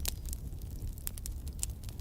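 Campfire burning: wood crackling with irregular sharp pops, several a second, over a low steady rumble.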